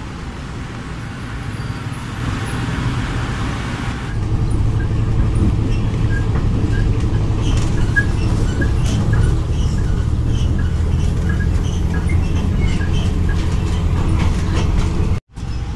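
Low, steady rumble of a Philippine National Railways diesel multiple-unit train, first from the platform beside it and then from inside the passenger car, growing louder about four seconds in. Scattered small clicks and rattles sound over it.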